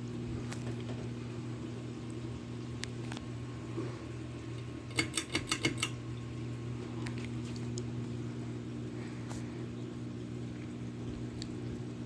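Cornucopia 52-inch ceiling fan running with a steady hum. About five seconds in comes a quick run of about six sharp clicks.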